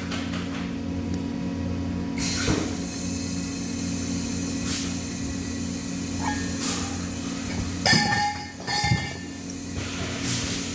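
Steady machinery hum with a few short bursts of hiss and occasional metallic clinks.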